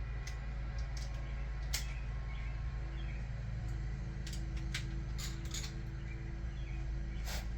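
Irregular sharp metallic clicks of hand tools on the cam caps as the caps are run down on a 2JZ cylinder head, over a steady low hum.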